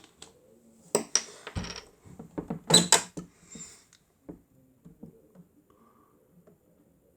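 Plastic clattering from a Miele W1 toy washing machine as its first rinse begins: a cluster of knocks and clicks from about one to three and a half seconds in, including one deeper thump, then faint scattered ticks.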